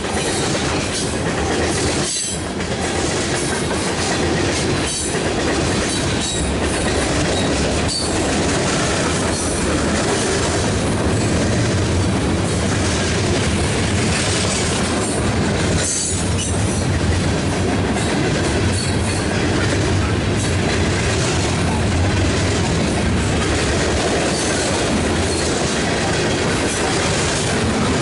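Mixed freight cars rolling past at close range: a loud, steady rumble and clatter of steel wheels over the rails, with scattered brief knocks.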